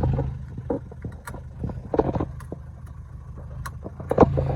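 Car engine running, heard from inside the cabin, with a steady low drone that weakens in the middle and comes back strongly near the end. Scattered clicks and knocks.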